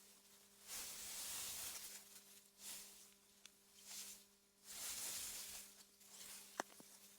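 Wind gusting through meadow grass in soft, airy swells that rise and fade every second or two, with a faint steady low hum beneath. A single sharp click comes near the end.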